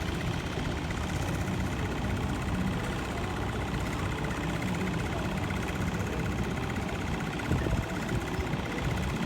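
Steady low engine rumble over a constant hiss, with a brief slight swell about three quarters of the way through.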